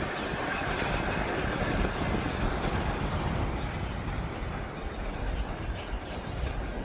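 Taiwan Railway E1000 push-pull Tze-Chiang express train passing, a steady noise of its wheels running on the rails that eases slightly in the second half.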